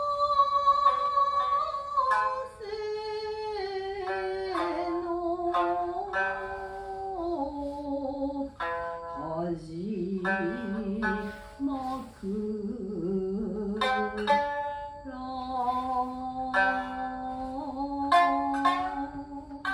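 Yamato-gaku music: a sung vocal line with long held, sliding notes over plucked shamisen and other plucked strings, many short sharp plucks throughout.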